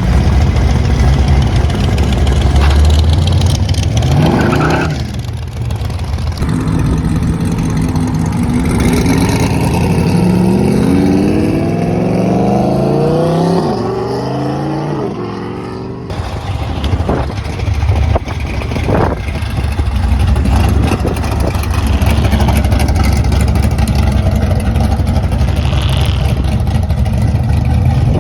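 Car engines running as cars drive off, with a heavy low rumble throughout. One engine revs up quickly about four seconds in, and another climbs steadily in pitch as it accelerates away over several seconds; the sound breaks off abruptly partway through and gives way to more steady engine rumble.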